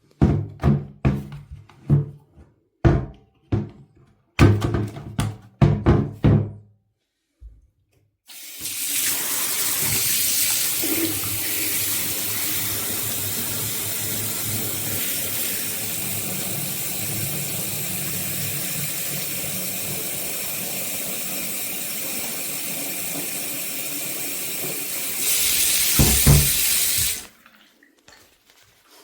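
A run of clicks and knocks. Then the BISSELL Revolution HydroSteam carpet and upholstery cleaner's 1300 W suction motor starts and runs with a steady hissing rush, sounding like running water as it draws in liquid. It grows louder for a couple of seconds near the end before cutting off suddenly.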